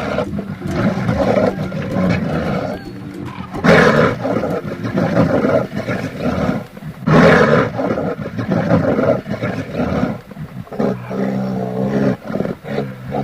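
Large animals calling, with two loud calls about four and seven seconds in and a steadier, lower pitched call near the end.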